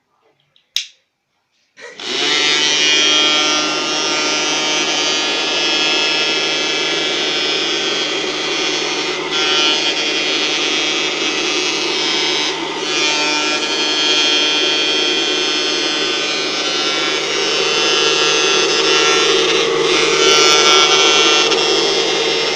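A click, then the small electric motor and fan of a homemade bottle vacuum cleaner start up and run steadily with a whine made of several steady tones, with a couple of brief dips partway through.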